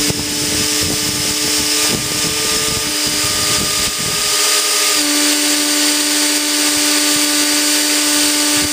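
Three electric ducted fans on a large RC Lockheed L-1011 TriStar model running steadily at part power during a ground power test: a loud whirring hiss with several steady whining tones. About five seconds in, the pitch of the whine shifts as the fan speeds change slightly.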